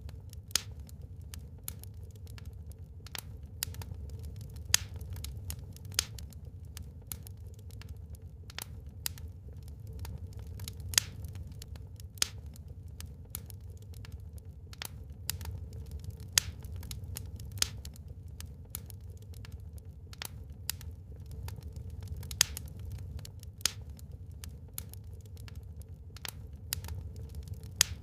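Wood fire burning in a fireplace: a steady low rumble of flames with continual fine crackling and irregular sharp pops from the burning logs.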